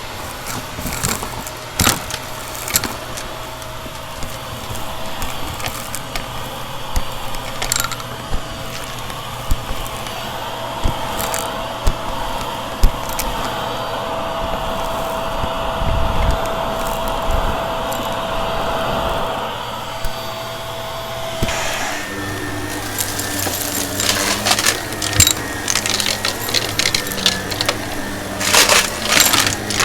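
Vacuum cleaner running with a steady whine while grit and crunchy debris rattle and click through it. About two-thirds of the way in the motor note changes, and near the end the crackling grows dense.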